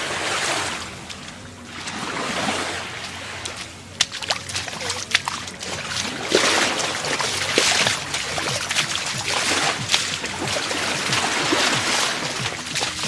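Small waves of Gulf of Mexico surf washing onto a sandy beach, the wash swelling and ebbing every few seconds, with short sharp splashes from about four seconds in.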